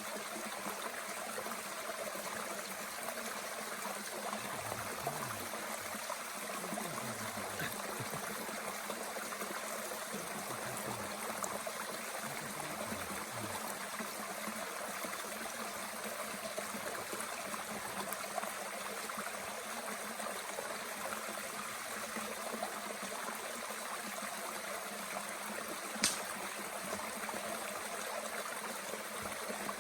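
Mountain stream running steadily, an even rush of water, with one sharp pop about 26 seconds in.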